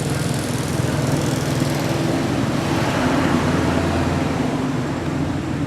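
A small engine running steadily nearby, its pitch lifting slightly about three seconds in.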